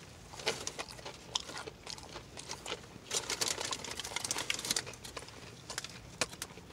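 Biting into and chewing a crispy fried chicken sandwich with onion rings and bacon: a run of sharp, crisp crunches, thickest from about three to five seconds in.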